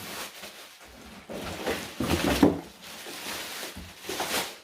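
Plastic wrapping rustling and crinkling as a vacuum cleaner is pulled out of its packaging, with louder crinkles about two seconds in and again near the end.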